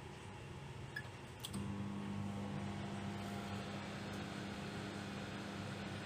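Microwave oven being started: a short beep about a second in, a click about a second and a half in, then the oven's steady low hum as it runs.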